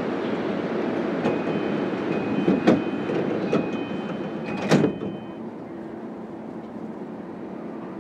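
Doors of an E233-5000 series electric train closing: a repeated two-tone door chime sounds while the sliding doors run shut, with two thuds. The second thud, about three-quarters of the way through the chime, is the loudest, and after it the surrounding noise drops as the doors seal.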